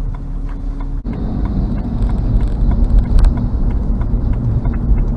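Road noise inside a moving car's cabin: a steady low rumble of tyres and engine. It breaks off sharply for an instant about a second in, then comes back louder and rougher.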